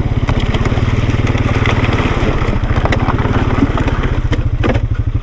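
An off-road vehicle's engine chugging at low speed over rough, washed-out trail, with a few sharp knocks and clunks.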